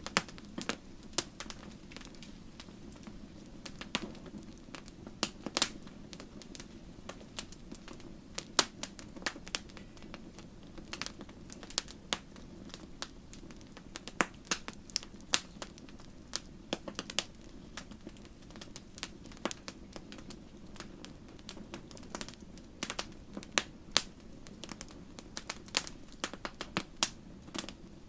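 Campfire crackling: irregular sharp pops and snaps from burning wood, several a second, over a steady low rumble.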